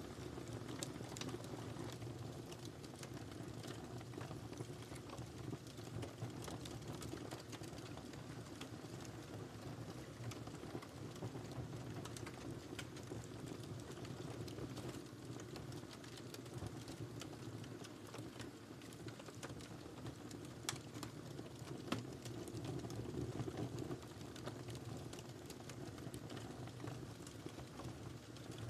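Wood fire burning in a fireplace: a steady low rumble of flames with many small irregular crackles, and a couple of sharper pops about two-thirds of the way through.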